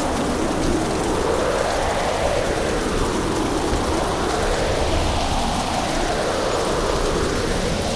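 Storm ambience of steady heavy rain with wind. The rushing noise slowly rises and falls in pitch about every three seconds.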